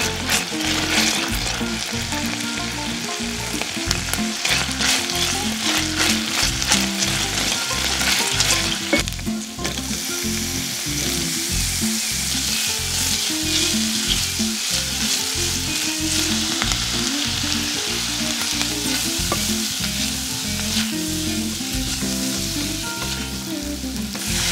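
Diced bacon, then bacon and onion, sizzling steadily in a stainless steel pot over low heat as the bacon renders its fat, with crackling and a plastic spoon stirring.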